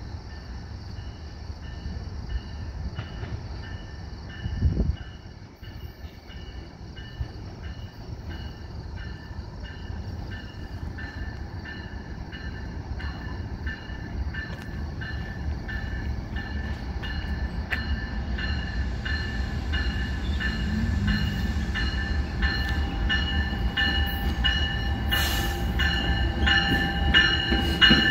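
EXO bi-level commuter train approaching along the track, its rumble growing steadily louder as it nears, with steady high ringing tones over it. There is a single thump about five seconds in, and harsh high-pitched wheel and brake noise near the end as the train draws alongside.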